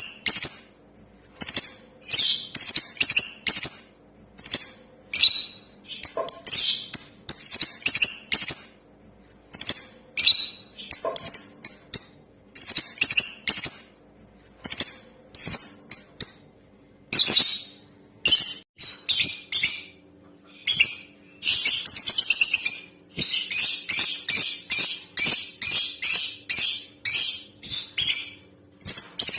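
Female lovebird chattering in bursts of rapid, shrill, high chirps with short gaps between them, running into one long unbroken burst of chatter near the end.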